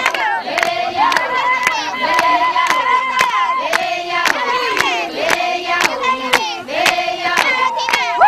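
A group of voices singing together, with some long held high notes, over rhythmic hand clapping at about two claps a second.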